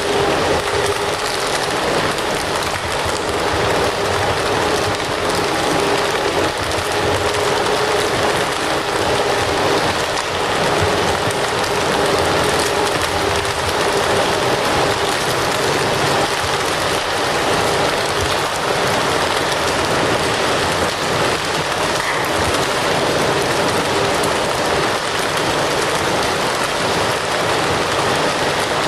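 Fire burning with a dense, steady crackle and hiss, over a faint steady hum.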